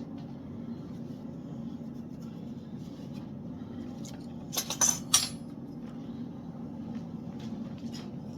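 Metal objects clinking together, three or four sharp clinks close together about halfway through, over a steady low hum.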